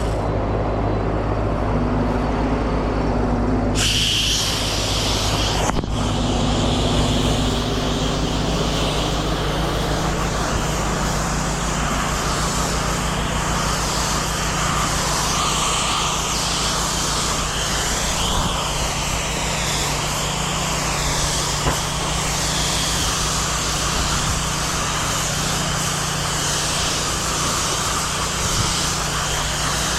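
Pressure washer's petrol engine running steadily, with a broad hiss of water spray starting about four seconds in and carrying on.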